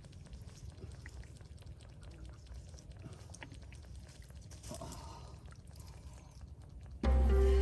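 Scattered small wet clicks and squelches, typical of hands working in wet mud, over a low wind rumble on the microphone. Loud music cuts in suddenly near the end.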